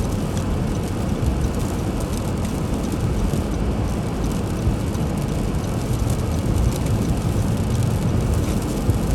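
Steady low rumble of a car driving, road and engine noise without letting up, with faint light ticking over it.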